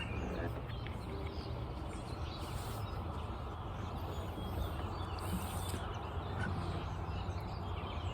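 Steady outdoor background noise with faint short bird calls, after a strummed acoustic guitar stops abruptly at the start.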